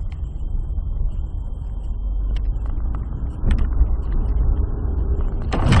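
A car on the move, with a steady low rumble of engine and road noise. There is a short knock about three and a half seconds in, and a loud, harsh burst near the end.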